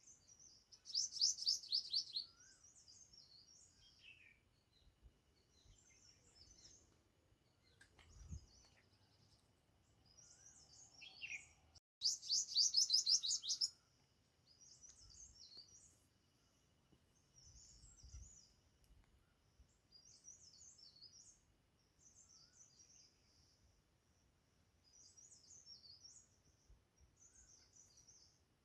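Songbirds singing: short, high, chirpy phrases repeated every second or two, with two louder rapid trills, one about a second in and one near the middle.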